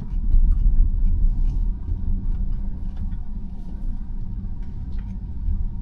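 Low, steady rumble inside the cabin of an electric Tesla Model Y rolling over a snowy road, mostly tyre and road noise with a few faint ticks.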